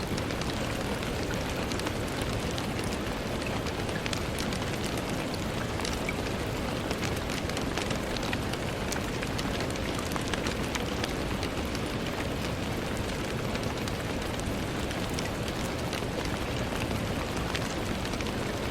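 Steady rain on a window pane: an even hiss of rainfall with many small, sharp drop ticks scattered through it, unchanging throughout.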